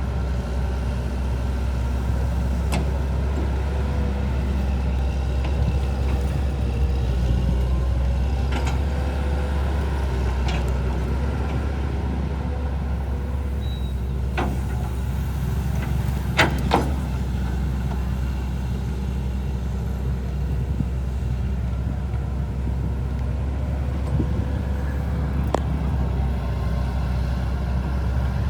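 Steady low engine rumble, with a few sharp knocks scattered through it, two of them close together about halfway.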